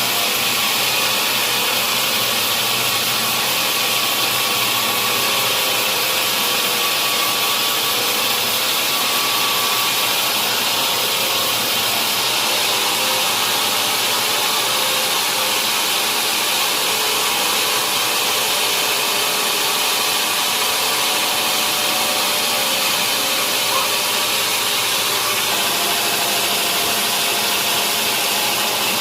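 Sawmill saw cutting steadily through a large log, a loud unbroken hiss of blade through wood with the machine running under it.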